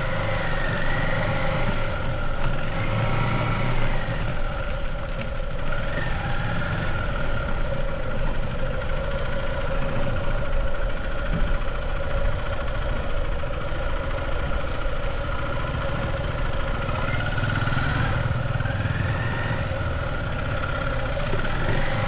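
Motorbike engine running at low speed under the rider, steady with a few brief rises and falls in revs, with a low rumble underneath.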